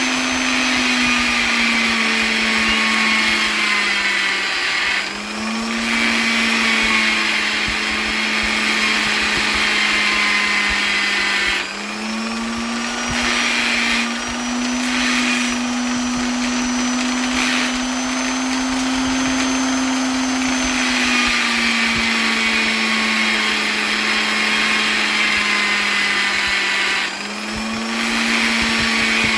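Electric polisher motor running continuously with a steady hum and whine. Its pitch sags and picks back up several times, with the clearest dips about 5, 12 and 27 seconds in.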